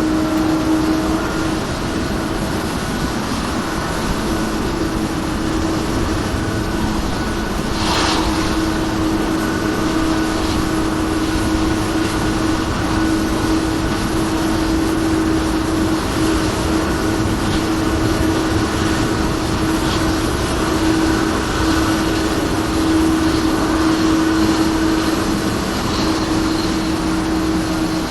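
Boeing 777-200ER jet airliner with Pratt & Whitney engines, its turbine noise running as a steady whine over a constant rumble during engine start. A brief sharp hiss comes about eight seconds in.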